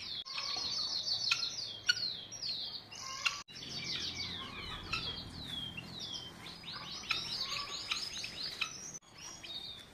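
Many small birds chirping and twittering together, a dense stream of quick falling chirps, broken twice by sudden cuts.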